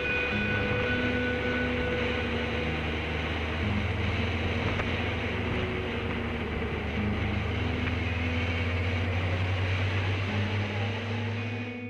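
Kawasaki ZZR600 inline-four engine running steadily while the motorcycle is ridden, mixed with heavy wind and road noise. The engine note strengthens a little about four seconds in.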